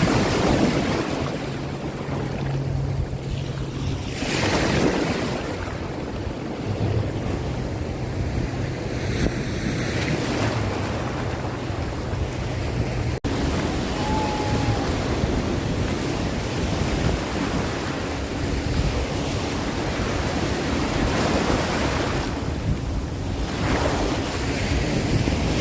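Sea waves surging and washing in every few seconds, with wind buffeting the microphone and a steady low hum underneath.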